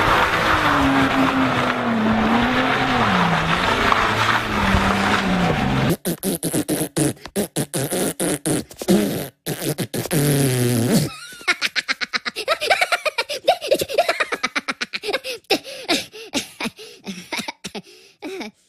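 Ferrari Enzo engine revving up and down in a drift, with tyre and gravel noise. About six seconds in it cuts off abruptly, and a cartoon Minion blows a long sputtering raspberry. From about eleven seconds, Minion voices chatter and giggle in gibberish.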